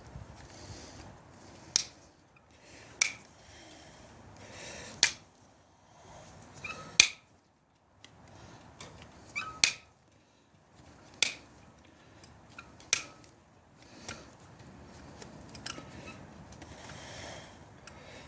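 Hoof nippers cutting hoof: about nine sharp snaps, one every second or two, with faint rustling between the cuts.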